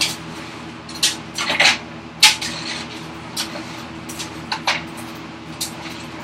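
Scattered sharp metallic clinks and wooden knocks, about seven spread unevenly, as a clamp and hand tools are handled on a wooden workbench to fix a workpiece down. A steady low hum runs underneath.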